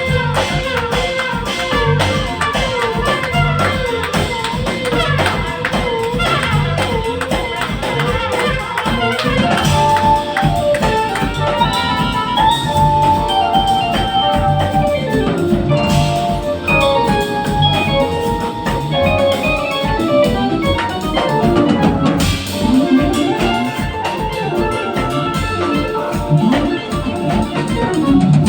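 A band playing music with drums, guitar and an organ-like keyboard; a held note with a wavering pitch opens, and busier melodic lines follow.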